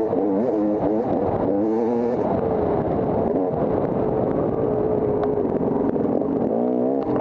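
Dirt bike engine running under load on an off-road course, its pitch rising and falling as the throttle is worked. It holds a steady note in the middle, then revs up and down again near the end.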